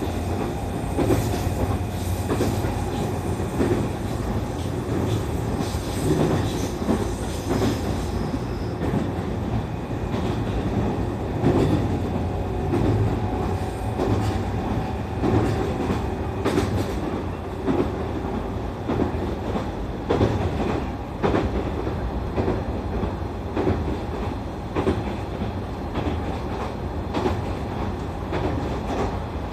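JR East E531 series electric train running along the line, heard from inside the passenger car: a steady rumble of wheels on rail with repeated clacks as the wheels pass over rail joints.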